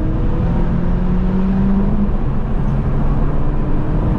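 Chevrolet Cruze 1.4 turbo engine accelerating, heard inside the cabin through a modified exhaust: a downpipe and cat-back with only an intermediate muffler left. The engine note climbs in pitch, falls back about two seconds in at an upshift, then climbs again.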